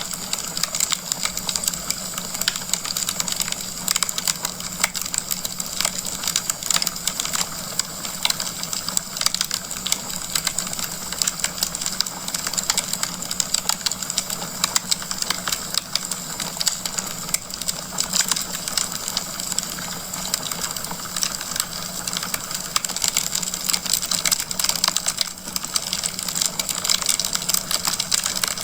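Wood fire in a fireplace crackling steadily: a dense, continuous run of small pops and snaps over a soft hiss, with a steady low hum beneath.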